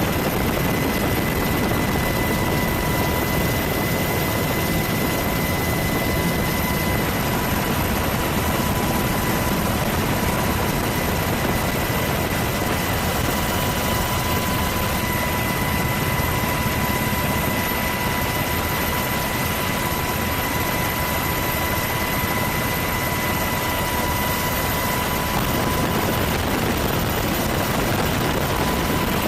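Steady aircraft noise: an even rushing drone with a faint constant whine, unchanging throughout.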